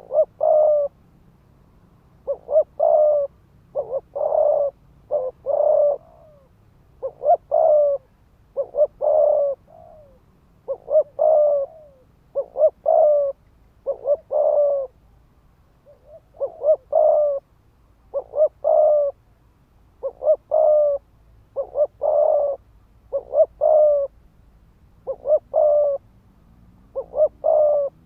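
Spotted dove cooing in quick repeated phrases, a cluster of several short coos about every one and a half to two seconds. This is the rapid 'thúc gù' cooing of a decoy male, used to provoke wild males into answering.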